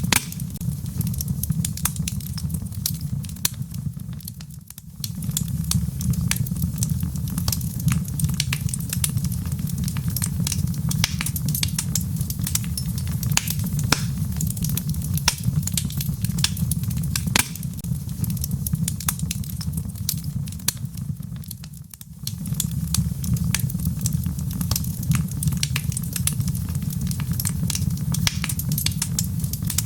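Fireplace fire crackling, with frequent sharp pops and snaps over a steady low rumble. The rumble dips briefly twice.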